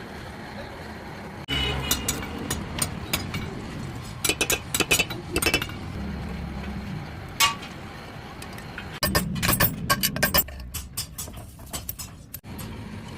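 Metal tools and generator parts clinking and tapping as they are handled during a workshop restoration. The clicks come scattered in clusters, and one brief ringing metallic strike sounds about seven seconds in.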